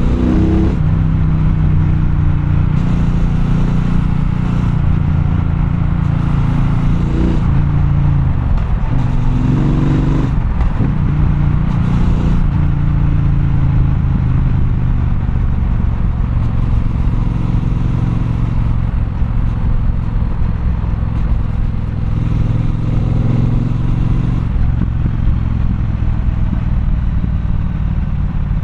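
Triumph Bonneville Bobber's 1200 cc parallel-twin engine running under way in city traffic, its revs rising and falling several times as the rider accelerates and eases off.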